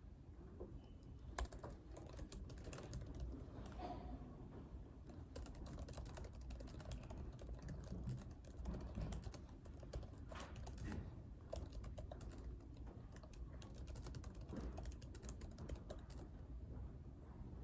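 Computer keyboard being typed on in irregular runs of key clicks, over a low steady room hum.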